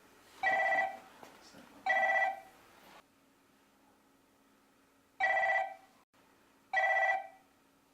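A phone ringing: two short electronic rings about a second and a half apart, a pause of nearly three seconds, then two more.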